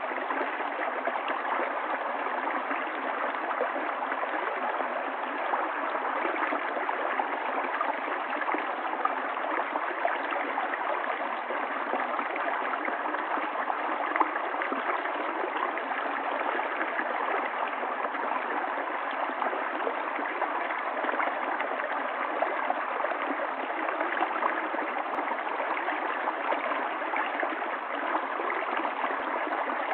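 Running water of a stream, flowing in a steady, unbroken rush.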